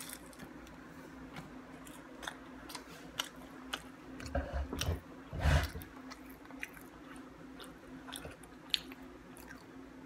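Close-up chewing and biting of fried chicken nuggets, with small crunches and wet mouth clicks scattered throughout. A louder, dull low thudding comes about halfway through.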